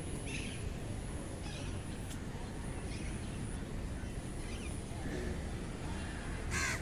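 Outdoor ambience: a steady low rumble with a bird calling now and then in short calls about a second apart. A louder call comes just before the sound cuts off suddenly at the end.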